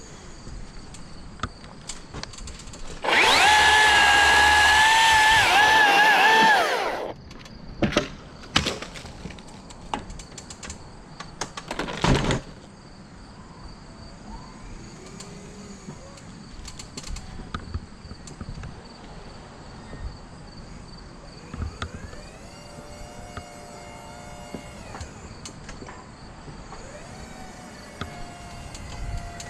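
Chainsaw cutting for about four seconds, loud and steady with a slightly wavering pitch, then several sharp knocks of cut wood dropping and striking, the last and loudest about twelve seconds in.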